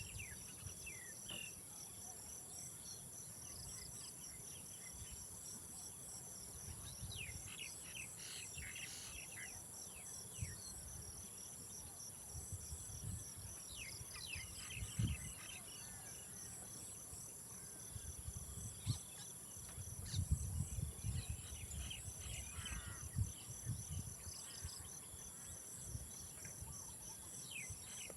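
Insects calling steadily outdoors, a continuous high buzz with rapid pulsed cricket-like chirping over it. Birds give short, falling chirps scattered throughout. Irregular low rumbles come and go, heaviest in the second half.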